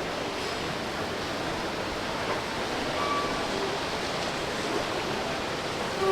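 Steady rushing ambient noise of a shopping mall interior, with a few faint short tones.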